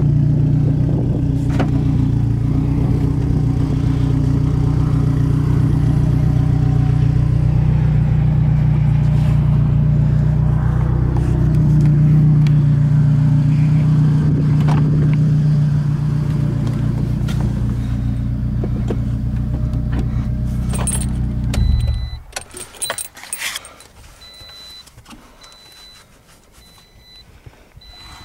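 Car engine, the 2008 Scion xB's four-cylinder, idling steadily, then switched off suddenly about 22 seconds in. After it stops come keys jangling, a few clicks and a faint repeating electronic chime.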